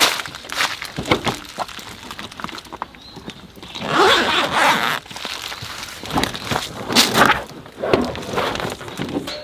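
Camping gear being handled and unpacked: irregular clicks and knocks, with a longer rustle about four seconds in.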